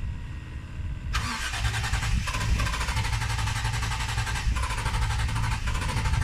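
Toyota 1G-GTE twin-turbo straight-six in an RA23 Celica starting up and running on fresh fuel after a new Bosch 044 fuel pump has primed the system. A low engine rumble throughout; about a second in the sound turns suddenly louder and harsher and stays that way, with brief dips.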